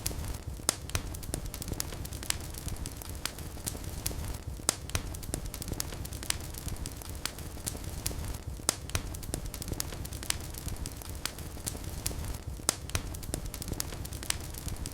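Wood fire burning in a fireplace: a steady low rumble of flame with frequent, irregular sharp crackles and pops, a few louder snaps among them.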